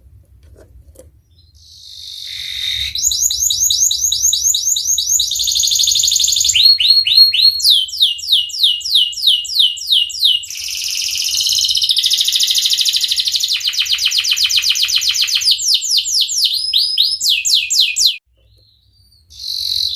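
Domestic canary singing a long song of rapid trilled phrases. Each phrase is a fast run of repeated high notes sweeping downward, and the phrase changes every second or two. The song starts about two seconds in and stops shortly before the end.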